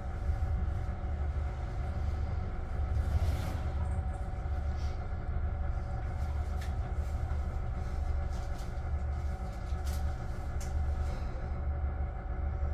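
Steady low hum of a stationary 10030-series electric train, its onboard equipment running while the train stands for a stop drill, with a few faint clicks.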